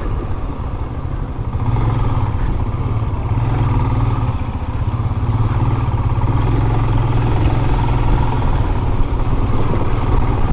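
Motorcycle engine running steadily while riding, a continuous low drone with road and wind rumble, easing slightly about a second in before holding steady again.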